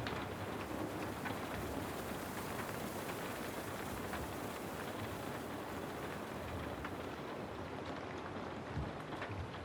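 Steady rain falling, with a few faint ticks scattered through it.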